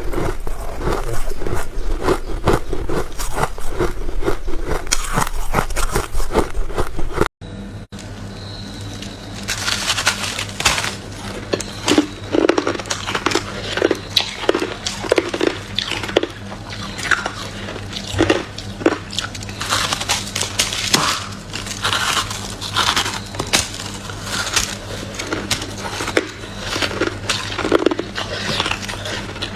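Freezer frost (soft white ice) being bitten and chewed close to the microphone, with dense crackling crunches. After a brief cut about seven seconds in, the crunches come slower and more spaced out over a faint steady hum.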